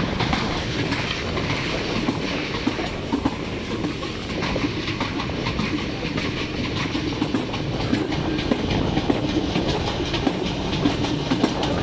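Pakistani passenger train running at speed, heard from an open coach window: a steady rumble and rush with its wheels clattering on the track.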